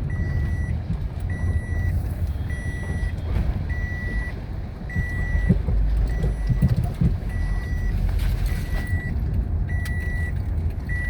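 Low, steady rumble of a motor vehicle with an electronic warning beep repeating evenly, about once every 1.2 seconds, each beep about half a second long.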